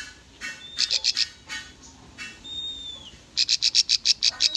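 Bar-winged prinia (ciblek) song. Several quick runs of sharp high chips come first, then a single clear whistle that drops in pitch in the middle, then a fast run of chips at about six or seven a second near the end.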